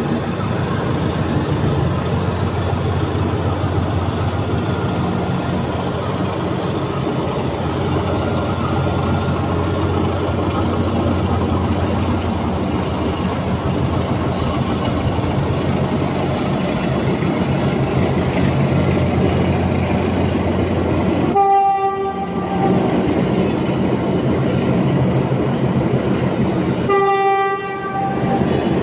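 Philippine National Railways commuter train rumbling steadily as it passes below. It sounds its horn twice near the end, each blast about a second long.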